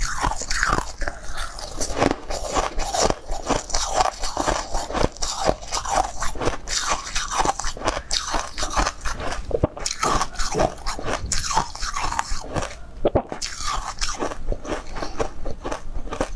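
Close-miked crunching and chewing of frosted pink frozen balls, sharp crunches following one after another in quick succession.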